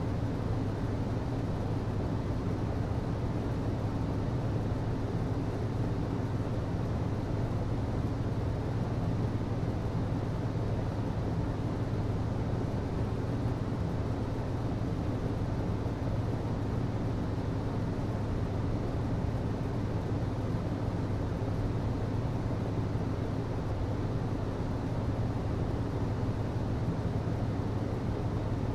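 HVAC system running steadily: a constant low hum over an even rush of moving air.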